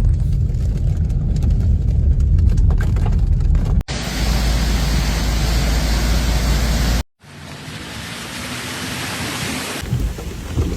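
Steady noise of heavy rain and floodwater in clips cut together. A low, rumbling stretch switches abruptly about four seconds in to an even hiss. A brief dropout near seven seconds follows, and another noisy clip fades in.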